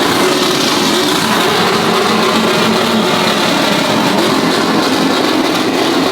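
Vehicle engine running loudly at high revs, held steady, with a heavy rush of noise over it.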